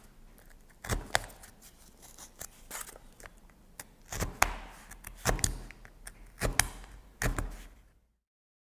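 A pointed tool punching holes through corrugated cardboard pieces on a pad: irregular crunchy pops and taps with rustling as the card is handled, stopping abruptly near the end.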